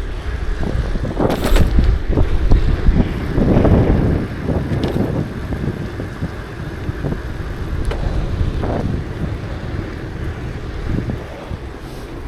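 Wind noise on the microphone of a moving bicycle, with uneven low rumble from the ride and a few short clicks and rattles. It is loudest about three to four seconds in.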